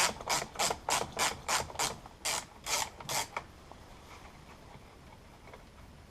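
Ratchet wrench with a 10 mm socket, clicking back and forth in quick even strokes, about three a second, as a nut or bolt is undone. It slows to a few strokes and stops about three and a half seconds in.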